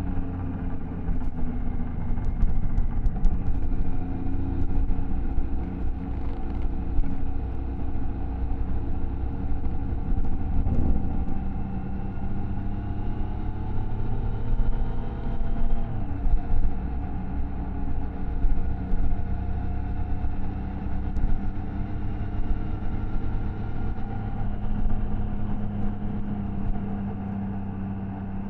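Triumph Tiger Sport 660's inline three-cylinder engine and exhaust running on the move. The pitch climbs as it accelerates, with a sudden drop about eleven seconds in and another about sixteen seconds in, like upshifts, then holds steady at cruise.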